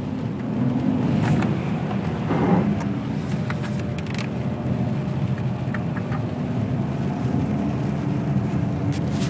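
Ferrari 599 GTB Fiorano's Enzo-derived V12 engine running under load as the car climbs a hill, with a steady engine note and a brief louder swell about two and a half seconds in.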